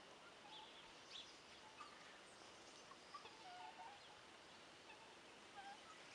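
Faint, scattered short bird chirps and calls over a low steady hiss.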